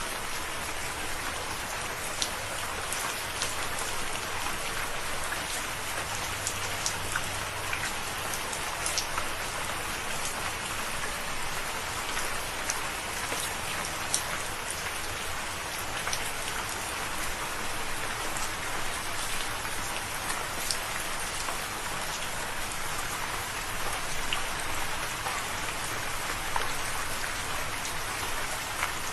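Steady rain falling on a surface, an even hiss dotted with many small, sharp drop ticks.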